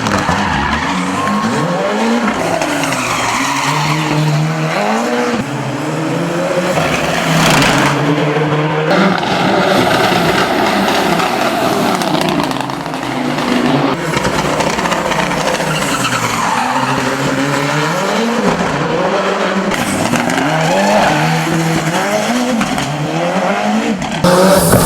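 A high-powered racing car engine revving up and down again and again, with tyres squealing and skidding. The sound changes abruptly several times where separate shots are cut together.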